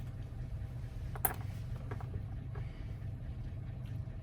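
Steady low hum with one sharp click about a second in and a few faint ticks after it, from a Toyota door lock cylinder and its small wafers being handled while they are decoded.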